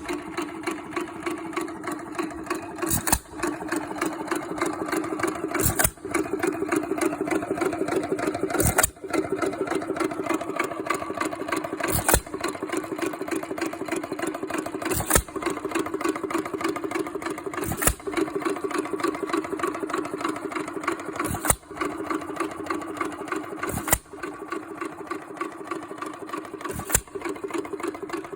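Hercules 1 1/2 hp Model E single-cylinder hit-and-miss engine running on its governor. A sharp firing stroke comes about every three seconds, and a steady mechanical running sound carries on between the firings as the engine coasts.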